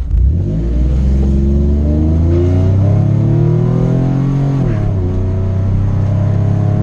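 Autocross car's engine accelerating hard from the start, its pitch rising steadily, then dropping sharply at an upshift about four and a half seconds in before pulling steadily again.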